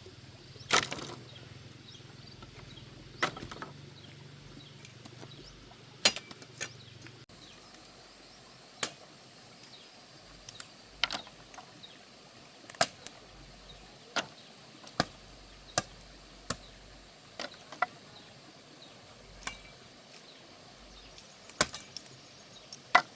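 A hand-held blade chopping into the wood of a fallen tree: about eighteen sharp strikes at an uneven pace, roughly one a second, with short pauses between groups.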